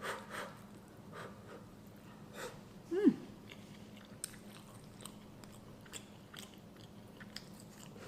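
Close-miked chewing and mouth sounds of someone eating scrambled ostrich egg with toast: soft wet clicks and smacks scattered through. About three seconds in comes a short falling hum of the voice.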